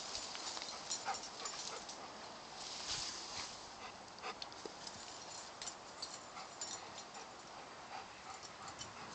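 Golden retriever moving about, with scattered short scuffs and clicks and a few brief high whimpers.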